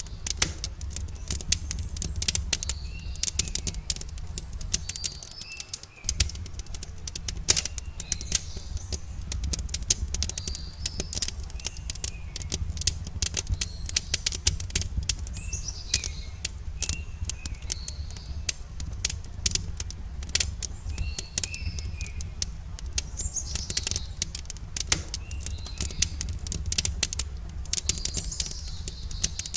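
Wood fire crackling with frequent sharp pops over a low steady rumble, while small birds chirp in short repeated calls throughout.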